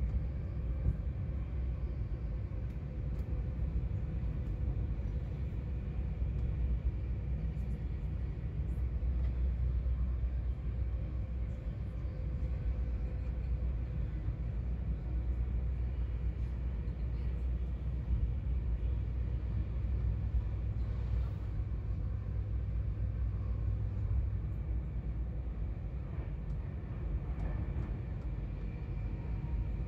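Passenger train running at speed, heard from inside the carriage: a steady low rumble of wheels on rail with a faint hum and a few light clicks.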